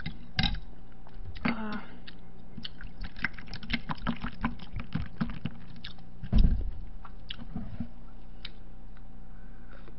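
A person chewing food close to the microphone: many small, sharp wet clicks and smacks, densest a few seconds in. There is one louder low thump about six and a half seconds in. A steady low electrical hum runs underneath.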